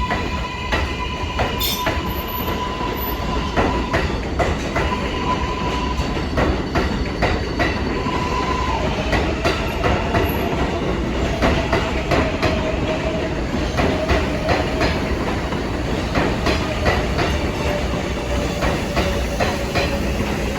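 R188 subway train running along the track, its wheels clicking over rail joints, with a steady high whine from the wheels or motors.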